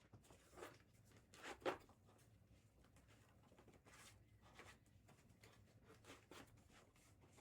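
Near silence in a small room, with a few faint, brief rustles and knocks, the clearest just under two seconds in.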